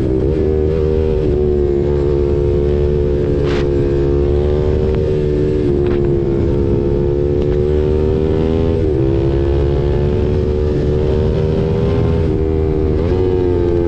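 KTM RC 390's single-cylinder engine through an SC Project aftermarket exhaust, running at fairly steady cruising revs with a few brief dips in pitch. Wind noise on the microphone runs underneath.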